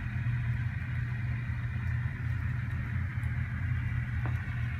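The sound decoder of an N scale Tier 4 GEVO model locomotive playing a steady diesel engine running sound through its small speaker, with a faint click near the end.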